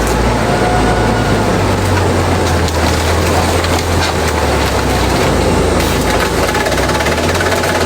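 Industrial shredder chewing bamboo: dense crackling and splintering over the machine's steady low drone.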